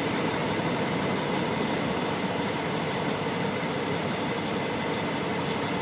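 Steady hum and hiss inside an idling semi truck's cab, the engine and cab air-conditioning fan running, with a faint steady high whine over it.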